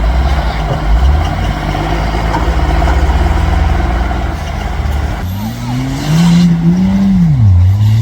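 Off-road 4x4 engine running with a steady low drone. About five seconds in, an engine revs up and holds, then the pitch dips and climbs again near the end.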